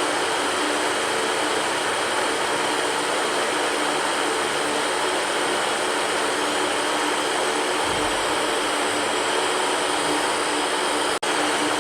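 Electric fan running steadily: an even rushing whir with a faint hum in it. The sound cuts out for an instant about eleven seconds in and comes straight back.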